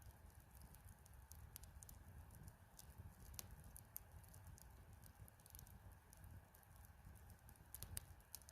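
Faint crackling of a wood campfire: irregular sharp pops and ticks over a low steady rumble.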